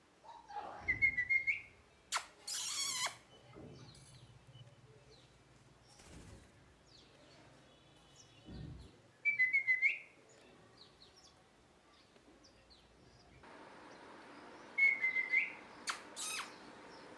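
Indian ringneck parakeet giving short chirping calls, three of them several seconds apart, each a quick note that rises at the end. A louder, harsh burst comes about two and a half seconds in.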